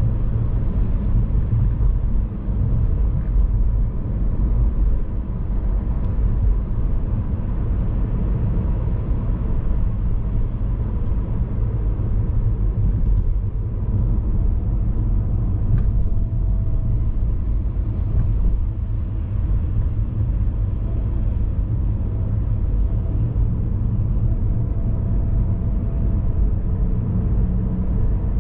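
Steady low rumble of a car driving: road and engine noise, unchanging throughout.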